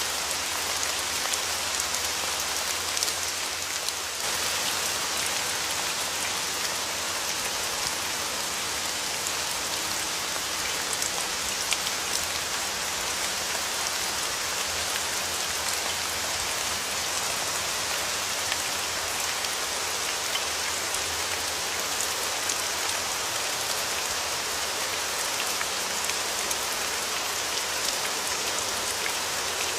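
Steady rain falling, with individual drops ticking sharply now and then.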